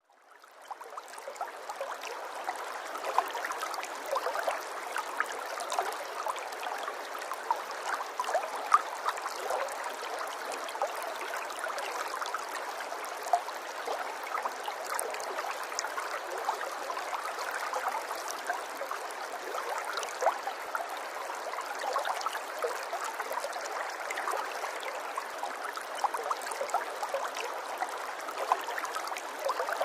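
Running water of a small stream or brook, a steady babble dotted with small irregular splashes and gurgles, fading in over the first second or two.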